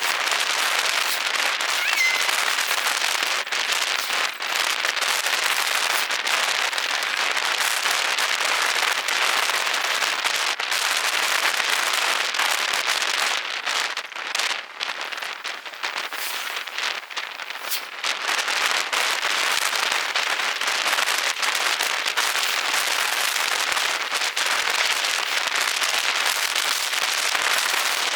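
Heavy rain pelting down, a dense crackling patter of countless drops, easing a little for a few seconds around the middle.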